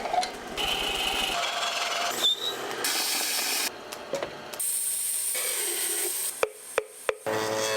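Wood being worked with tools in quick succession, with rasping and scraping passages and a high steady whine in the middle. Near the end come three sharp, hollow knocks close together, like a moktak being struck.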